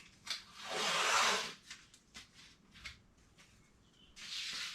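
Two bursts of rubbing noise, the louder about a second long near the start and a shorter one near the end, with a few light clicks between.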